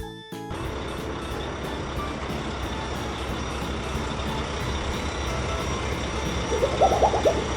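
Cartoon truck engine sound effect running steadily with a low rumble. Near the end there is a short wavering, pitched sound.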